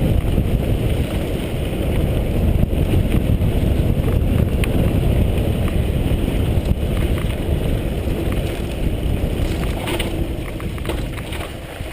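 Wind buffeting the camera's microphone while moving at speed, a steady rumbling noise, with a few light knocks or rattles.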